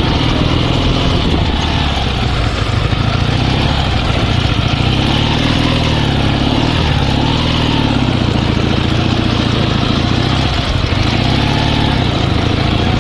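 Dnepr 16 sidecar motorcycle's boxer-twin engine running, its pitch rising and falling a little with the throttle.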